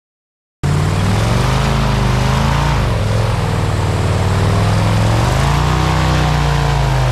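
Airboat engine and propeller running loud, cutting in suddenly after a moment of silence; the pitch dips about three seconds in and climbs again near the end as the throttle changes.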